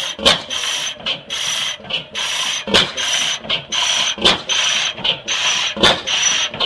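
25 hp South Penn 'Half Breed' oil field engine (an old steam engine with a gas cylinder in place of the steam cylinder) running slowly on propane with hot-tube ignition. A sharp crack comes about every second and a half, with a regular rhythmic hiss and clatter between the cracks.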